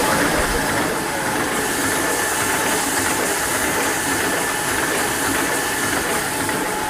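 Aseptic carton filling machine for Tetra Brik-type milk packs running steadily: an even mechanical hiss and clatter with a faint steady whine.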